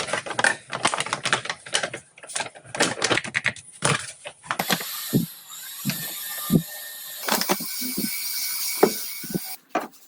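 Kitchen work sounds: a quick, busy run of clicks and knocks, then a steady hiss with scattered knocks that stops shortly before the end.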